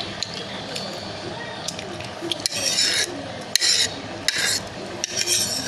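Close-up eating sounds while instant noodles are being eaten: four short rasping noises about a second apart, with small clicks between them.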